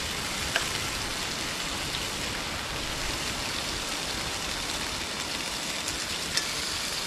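Oil in a frying pan sizzling over a campfire: a steady hiss, with two sharp pops, one about half a second in and one near the end.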